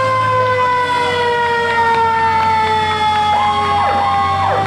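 A siren-like tone, one pitch with overtones, winding slowly down in pitch, with a few short sliding sounds near the end.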